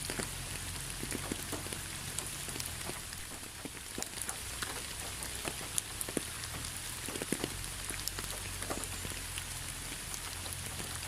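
Rain falling steadily, with a constant hiss and many separate drops ticking on a surface at irregular moments.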